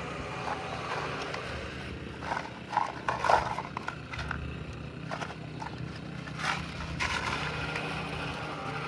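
A few short knocks and scrapes as asphalt shingles on a roof are worked by hand to re-secure the loosened ones, bunched about two to three and a half seconds in, with another near six and a half seconds, over a steady low hum.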